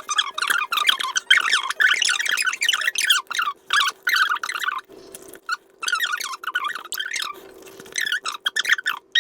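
Close-miked eating: a fast run of crackly, squeaky chewing noises, broken by two short pauses around the middle.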